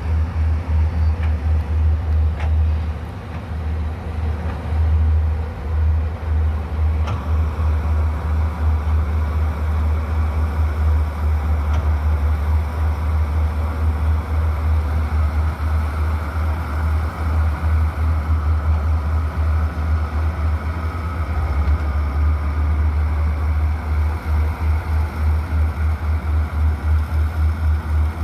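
Heavy diesel machinery engine running steadily: a loud, low, pulsing drone.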